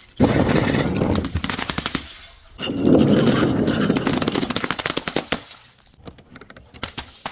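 Brittle objects being crushed: two stretches of rapid crackling and snapping, each a couple of seconds long, followed by a few scattered cracks near the end.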